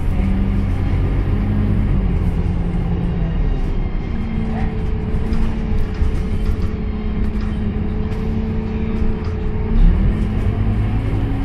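Scania K230UB city bus heard from inside the cabin while riding: the diesel engine and drivetrain run steadily, the engine note stepping down and back up in pitch, with a steady whine through the middle. A low thump comes just before the end.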